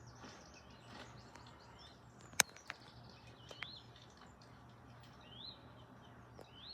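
Faint forest ambience with small birds giving short, scattered chirps. There is a sharp click about two and a half seconds in, and a low steady hum underneath.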